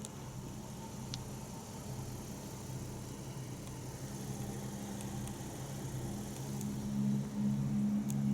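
Car engine idling with a steady low hum that grows louder near the end.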